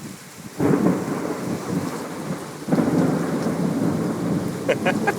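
Thunder rumbling over heavy rain, coming in under a second in and swelling again about halfway through, after a lightning flash.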